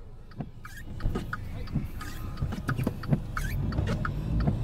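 Car engine running at low revs under throttle as the car is pushed through deep snow, with many short squeaks and crunches from the tyres working in the snow.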